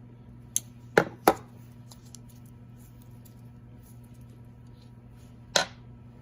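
Sharp clicks from hand work on fuel-line hose clamps: a light one, then two loud ones in quick succession, and another loud one near the end, over a steady low hum.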